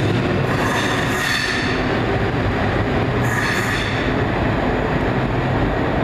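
ScotRail electric multiple unit running away down the line with a steady rumble. High wheel squeal rises twice, about half a second in and again about three seconds in.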